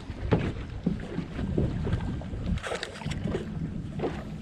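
Water slapping and lapping against a small boat's hull with irregular splashes and knocks, over a low rumble of wind on the microphone.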